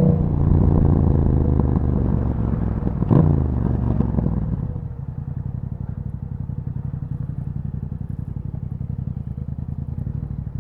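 A 2021 Yamaha MT-07's parallel-twin engine through an Akrapovic exhaust, its revs falling off over the first few seconds, with a short clack about three seconds in. It then settles into a steady, lumpy idle for the second half.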